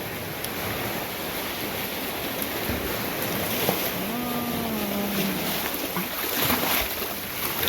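Sea waves washing in steadily.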